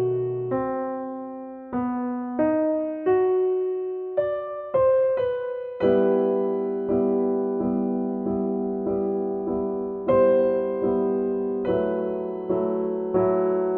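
Background piano music: slow single notes, each struck and left to fade, giving way about halfway through to soft repeated chords.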